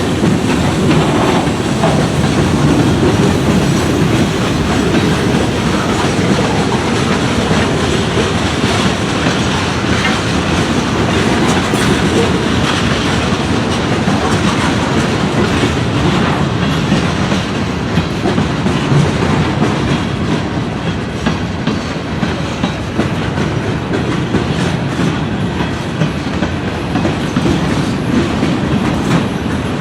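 Freight train cars rolling past at close range, a steady rumble of wheels on rail with a clickety-clack.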